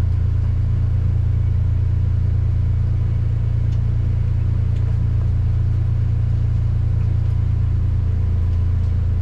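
A steady, low engine drone running evenly without change.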